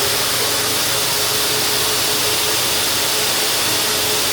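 Duct-cleaning brush and vacuum machine running steadily, a loud even rush of air with a steady motor whine.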